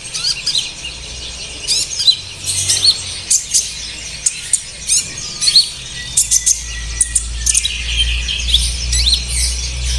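Olive-backed sunbird (kolibri ninja) calling: a rapid series of sharp, high chirps and quick falling notes. A low hum runs underneath and grows louder after about six seconds.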